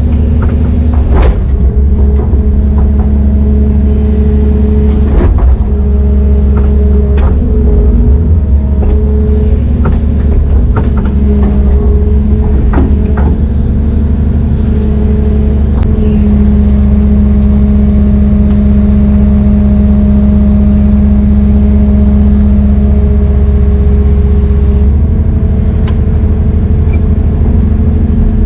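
Heavy diesel engine of a Brøyt X21 excavator running steadily under load, its note shifting a little about halfway and again near the end. Sharp metal clanks are scattered through the first half.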